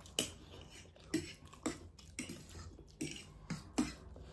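Ramen noodles being slurped and chewed, with forks clicking on plates: a run of short, irregular smacks and clicks, about two a second.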